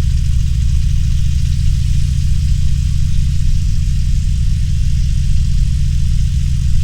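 Harley-Davidson Roadster's V-twin engine running steadily, an even low pulsing rumble with no revving.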